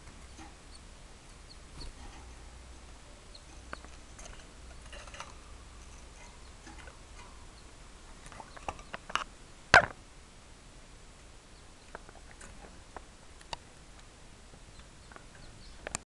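Faint, scattered cheeping of five-day-old canary chicks. A few sharp clicks break in, the loudest one about ten seconds in.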